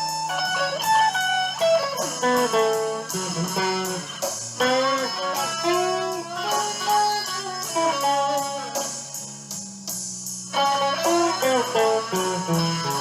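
Electric guitar playing a slow blues lead over a backing track, with many bent notes that slide up and down in pitch.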